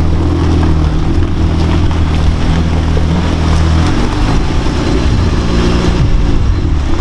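Off-road vehicle engine running loudly and steadily, its low note shifting about four seconds in.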